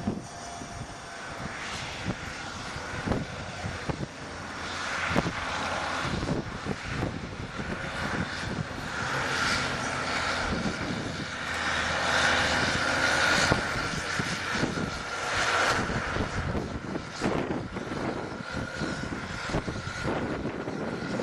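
Engine of a big road snowblower droning as it comes down the road, growing louder to a peak about midway and then fading as it passes on.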